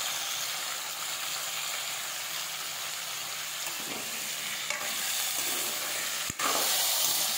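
Raw green banana slices sizzling in hot oil in a kadai while a metal spatula scrapes and turns them. The sizzle is a steady hiss, with a sharp click about six seconds in, after which it grows louder.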